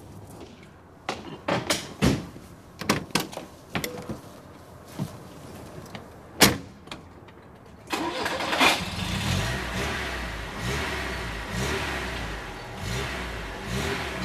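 Scattered knocks and clicks of people handling the car, the loudest a single sharp bang about six seconds in. About eight seconds in, a police car's engine starts and keeps running steadily.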